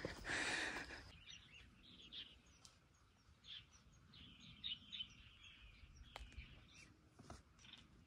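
Faint birds chirping: many short, high calls scattered over quiet outdoor background. The first second is a louder rush of noise that cuts off abruptly.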